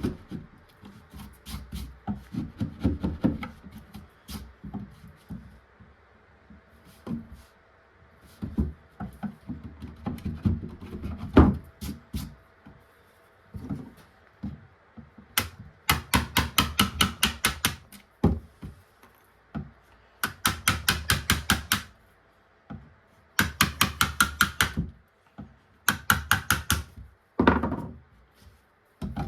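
Workshop handwork on wood. Scattered knocks and clunks come first, then from about halfway four bursts of rapid, evenly spaced tapping, several strikes a second.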